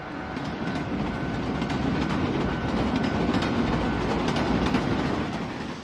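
Train running on the rails, its wheels clattering over the track; the noise swells over the first second or so and drops off near the end.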